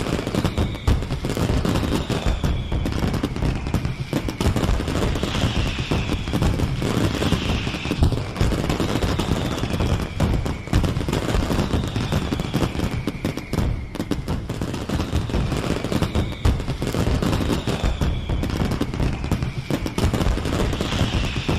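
Fireworks display: a dense, continuous barrage of bangs and crackling, over a low rumble. A high falling whistle comes again every second or two.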